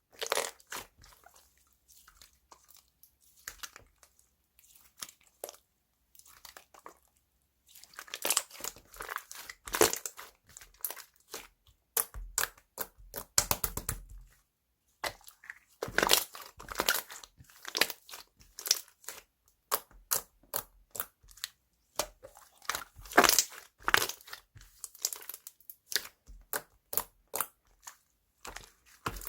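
Slime being squeezed, pressed and poked by hand, giving runs of short crackling clicks and pops. It is sparse and quiet for the first several seconds, then busier and louder from about a quarter of the way in.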